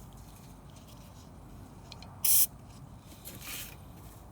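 Short hissing blast of spray forced through a small-engine carburettor's jet and emulsion tube to clear it, with a fainter second burst about a second later; the passage is a little blocked.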